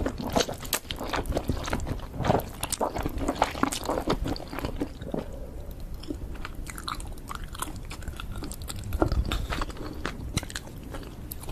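Close-up eating sounds: a person biting and chewing food with crisp, crunchy clicks. The clicks come thick and fast for the first few seconds, then thin out after about five seconds.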